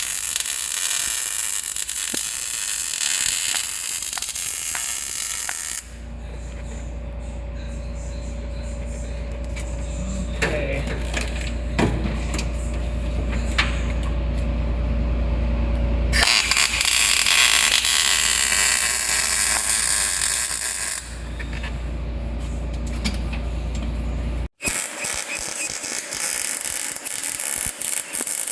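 MIG welder arc crackling and hissing as wire is laid down on sheet metal, in three runs of several seconds each. A steady low hum fills the pauses between the runs.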